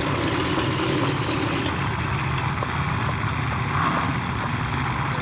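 Drag racing cars' engines idling with a steady low rumble.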